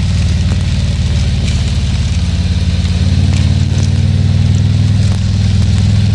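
Harley-Davidson Tri Glide Ultra's V-twin engine running steadily under way, easing slightly about five seconds in, with a steady hiss above it.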